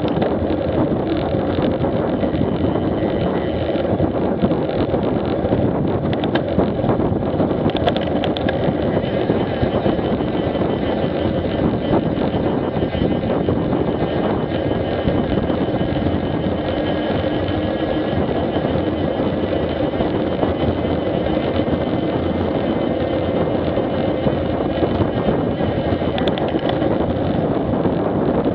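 Street motorcycle riding at a steady speed: engine running evenly under a constant rush of wind on the action camera's microphone.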